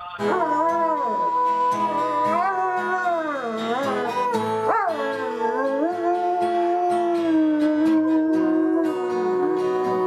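A dog howling along with music: sliding howls that rise and fall, then one long held note through the second half.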